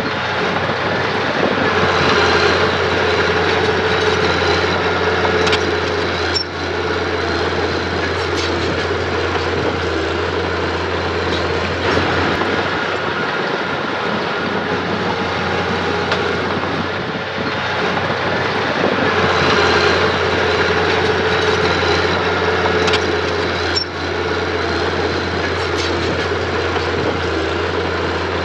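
Mitsubishi mini bulldozer running steadily, its engine note rising and falling as it works, with a few sharp metallic clanks.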